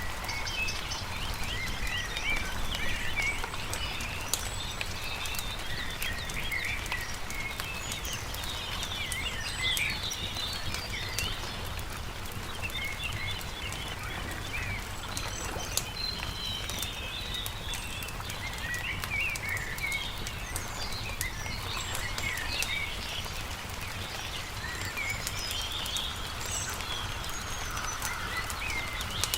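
Several birds chirping and singing without a break over the scattered pops and crackles of a wood campfire, with a steady low rumble underneath.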